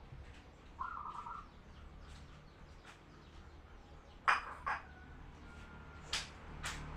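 Zebra dove (perkutut) and other birds calling: one short cooing note about a second in, then four sharp, loud calls in two pairs, one pair past the middle and one near the end.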